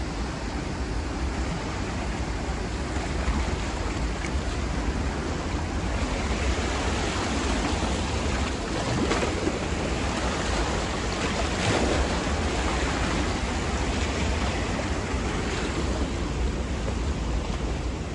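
Steady outdoor rushing noise, with a low rumble of wind on the microphone, by open water.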